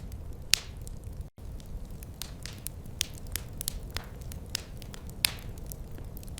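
Fireplace fire crackling: irregular sharp pops and snaps, a few louder ones, over a low steady rumble. The sound cuts out for an instant about a second in.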